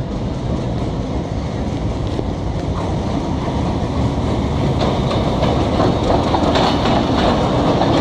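Passenger train hauled by a diesel locomotive rolling past along the platform, growing louder as it draws level. In the second half the wheels clickety-clack over the rail joints as the coaches pass.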